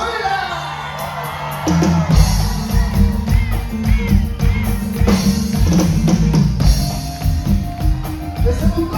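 Live band music, an instrumental passage between sung lines: drum kit and bass playing a steady beat, with held keyboard tones above. The drums and bass come in strongly about two seconds in.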